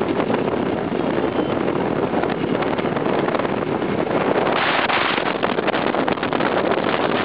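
Wind buffeting the microphone while riding a two-stroke Jawa/Yezdi motorcycle, with the running engine under it. A stronger gust comes about halfway through.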